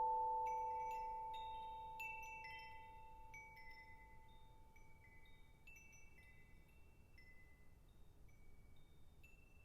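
A single vibraphone note rings and slowly fades, while small high-pitched found chimes are struck lightly again and again, in scattered overlapping pings from about half a second in.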